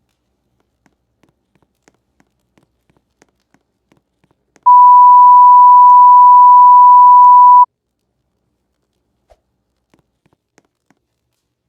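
A loud, steady electronic beep tone at about 1 kHz, held for about three seconds and cutting off sharply, with faint scattered clicks before and after it.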